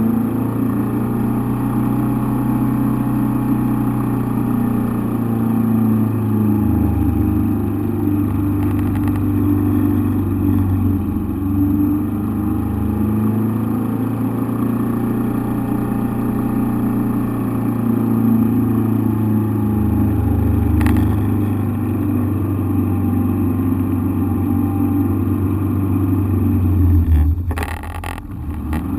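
An engine running steadily at a constant speed, heard from inside the cockpit. Near the end it briefly surges, then dips for a moment with a few sharp clicks.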